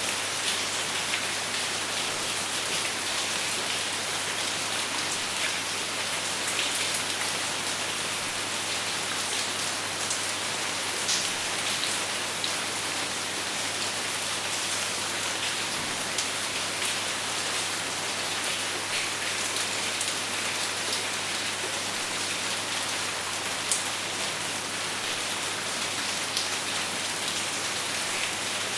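Steady rain falling without thunder: an even hiss with individual drops ticking sharply now and then.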